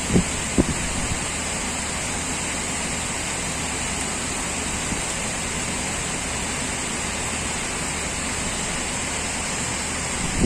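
Heavy typhoon rain falling in a steady hiss, with two short low thumps in the first second.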